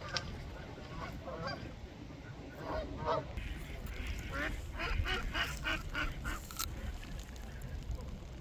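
A flock of ducks calling: scattered quacks at first, then a quick run of about three or four calls a second midway through.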